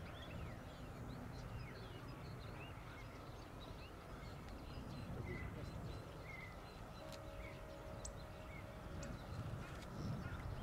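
Faint chirps of small birds over a low, steady background rumble, with a short steady tone about seven to nine seconds in.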